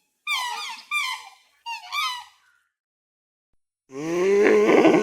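A young animal's high, squeaky calls: three short ones in quick succession, each gliding up and down. After a pause of over a second, a louder, much lower drawn-out call from a larger animal starts near the end.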